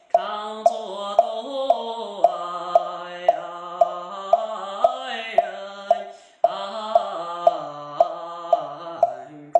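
A male Daoist priest softly singing a Quanzhen Daoist scripture chant in long, slowly gliding held notes, kept in time by a steady knock about twice a second. The voice breaks off briefly for a breath a little past halfway, while the knocks go on.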